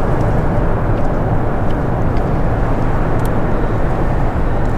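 Steady, loud roar of highway traffic on the I-95 bridge overhead.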